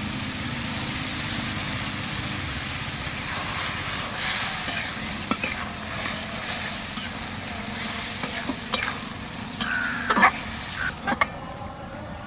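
Boiled water lily stems sizzling in a hot metal wok as mustard paste thinned with water goes in. A metal spatula then stirs them, scraping and knocking against the wok several times in the second half.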